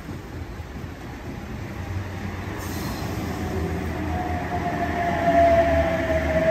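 Double-deck electric passenger train arriving alongside the platform, its running noise growing louder as it draws in. About four seconds in, a high whine sets in and slowly falls in pitch as the train slows.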